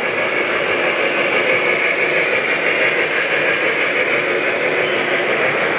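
Model trains running on the layout: a steady rolling rumble of wheels on track, with a faint steady hum underneath.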